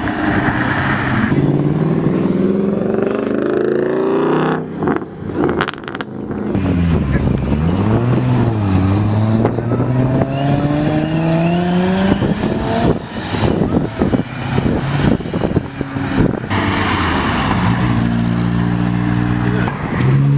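Car engines accelerating, their pitch climbing repeatedly as they rev up through the gears, with a brief drop and re-climb midway. Near the end the engines settle into steadier, lower revs.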